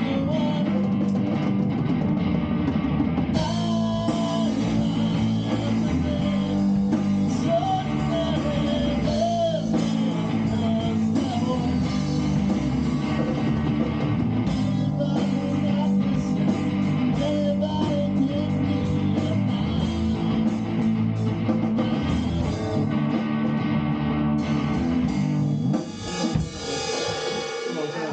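A band playing rock music on guitar and drum kit, a steady full groove that breaks off and thins out near the end.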